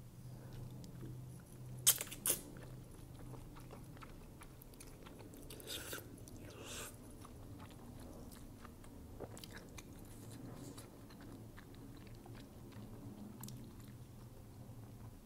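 Close-miked chewing of wide, slippery Korean glass noodles, with wet mouth sounds and two sharp clicks about two seconds in.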